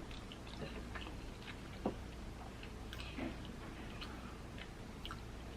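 Faint, scattered small clicks and taps of food and utensils being handled at a table, with one slightly louder tick about two seconds in, over a low steady hum.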